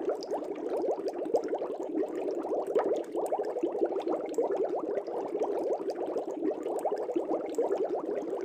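Aquarium air bubbles rising through the water of a fish tank: a steady, dense stream of small gurgling pops.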